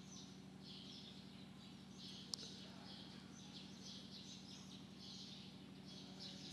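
Faint birds chirping repeatedly in the background over a steady low hum, with one sharp click a little over two seconds in.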